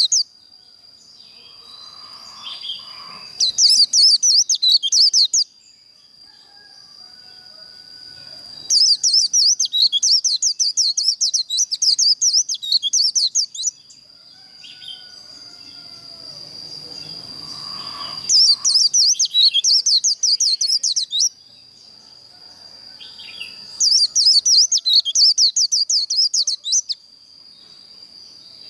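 White-eye (vành khuyên) singing its rapid, high-pitched 'líu' song in four bouts of fast twittering a few seconds long, over a thin steady high tone.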